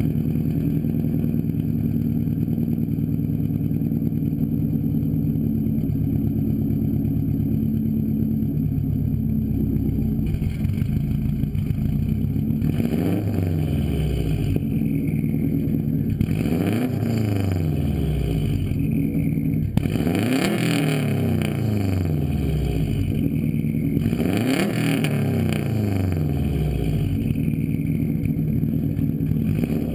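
2004 Subaru STi's turbocharged 2.5-litre flat-four idling through a full-titanium Tomei Expreme Ti catback with no muffler, loud and steady. About halfway through it is free-revved four times, the pitch rising and falling with each rev.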